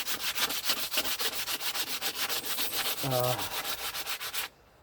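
Hand sanding: quick back-and-forth abrasive strokes, about five or six a second, stopping about four and a half seconds in.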